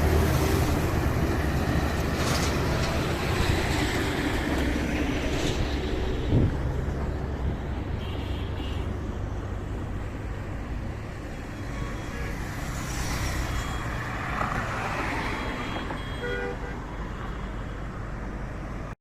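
Road traffic passing, a steady rumble of engines and tyres that slowly fades, with a few short horn toots.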